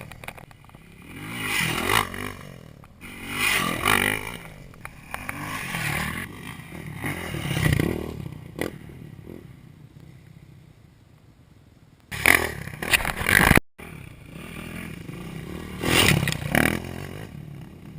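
Dirt bike engines revving up and easing off in repeated swells about every two seconds. The sound fades toward the middle, then cuts back in abruptly with louder revving and a brief dropout, followed by another swell near the end.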